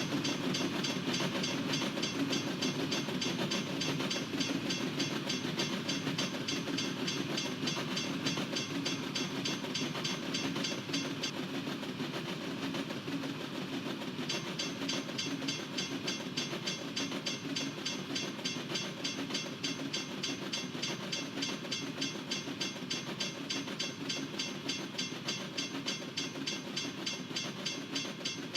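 Freight train cars rolling past with a steady rumble and wheel clatter, while a railroad crossing bell rings rapidly; the bell drops out for about three seconds near the middle, then resumes.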